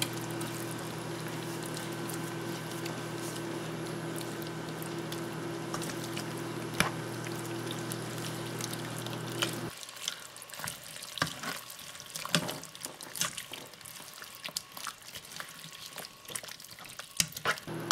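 Venison chunks and vegetables sizzling in butter in a frying pan while being stirred, with a spatula scraping and clicking against the pan. A steady low hum runs under it, stops about ten seconds in and returns near the end.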